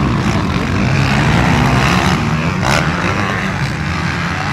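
Several motocross motorcycles running on the track, their engines revving up and down over one another. A short, sharper burst of noise comes about two-thirds of the way in.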